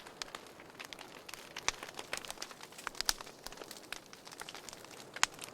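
Wood fire crackling in a fireplace: irregular sharp pops and snaps over a soft steady hiss, with a few louder pops, one about three seconds in.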